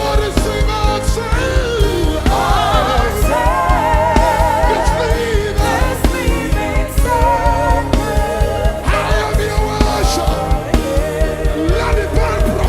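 Live gospel worship music: a singer's wavering vocal lines with heavy vibrato over a band keeping a steady beat.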